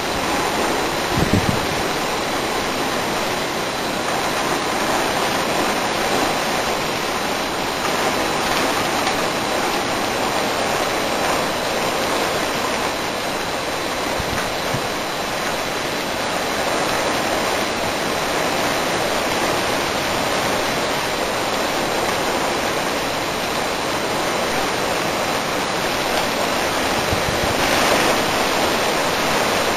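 Heavy thunderstorm rain pouring down steadily, a dense continuous hiss of downpour. A brief thump about a second in.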